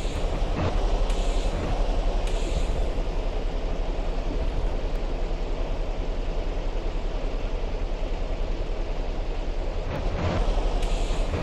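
Heavy truck running, a steady low rumble of engine and road noise.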